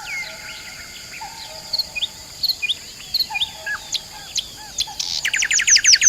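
Birds chirping and calling, a scatter of short chirps over a steady high hum, with a fast trill of rapid repeated notes about five seconds in that grows louder to the end.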